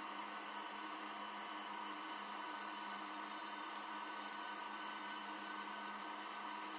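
Steady, unchanging jungle insect drone: a constant high-pitched chorus over a low hum and hiss, with no distinct calls or events.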